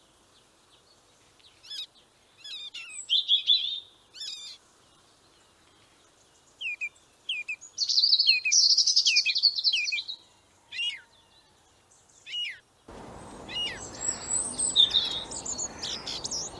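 Small birds chirping and trilling in short, high phrases separated by quiet gaps. About thirteen seconds in, a steady background hiss comes in suddenly, with more high chirps over it.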